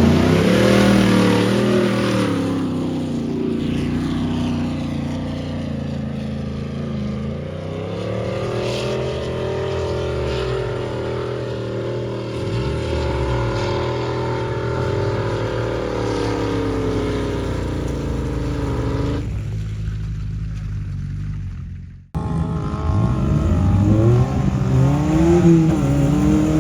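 Off-road 4x4 engine labouring on a climb or rough ground, its revs rising and easing back slowly. The sound breaks off abruptly about 22 seconds in, then returns with the revs climbing again.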